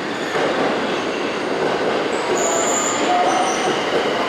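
Tokyo Metro 1000 series subway train moving through the station, its wheels rumbling on the rails. High-pitched wheel squeals come in about two seconds in.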